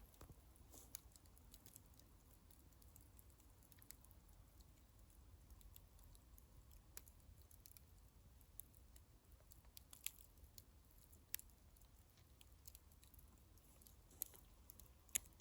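Faint wood fire crackling: sparse sharp pops and ticks over a low steady rumble, with one louder pop near the end.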